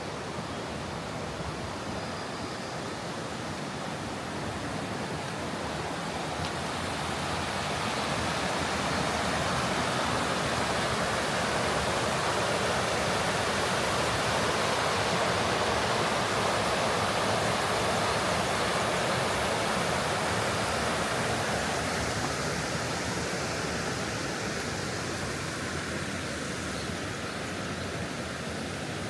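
Rushing stream water, a steady wash that swells louder through the middle and then eases back.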